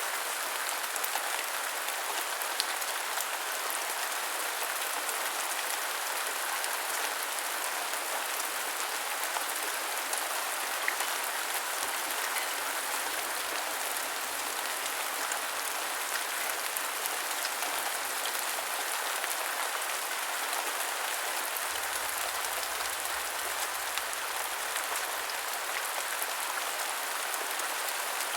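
Steady heavy rain falling, a dense even hiss with many small drop ticks.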